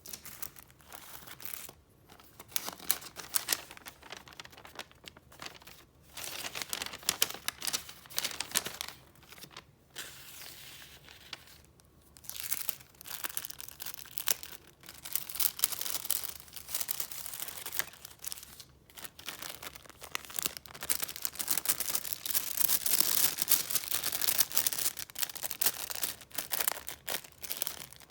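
Paper rustling and crinkling as sheets are handled and leafed through, in irregular bouts with short pauses, busiest near the end.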